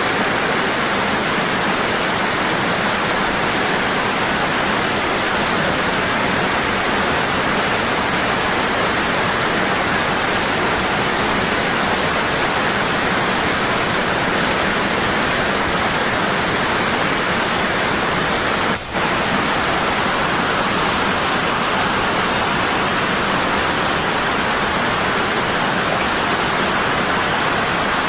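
Waterfall: water falling heavily and constantly in a steady, even rush. About two-thirds of the way through there is one momentary dip in level.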